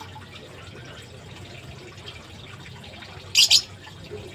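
Water running steadily from a tap, with two short, sharp hissy splashes or bursts in quick succession about three and a half seconds in.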